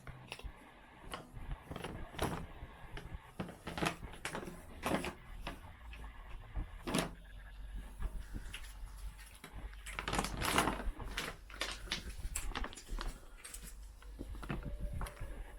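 Cats crunching dry food with their heads in a bag: irregular sharp crunches and clicks, with a denser, louder stretch about ten seconds in.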